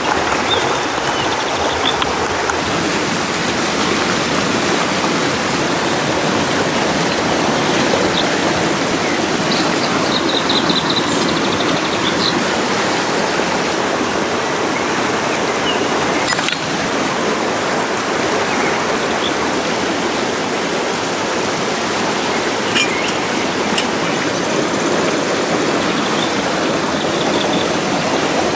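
A stream flowing steadily, with a few brief high chirps now and then and a single sharp click about halfway through.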